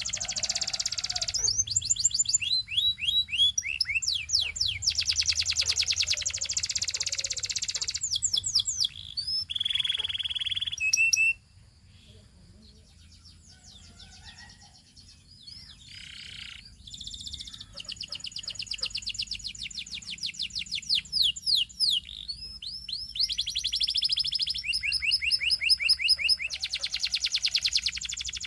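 Canary singing: fast trills and rolls of rapidly repeated high notes, falling quiet for a few seconds around the middle before resuming. A faint low hum runs underneath.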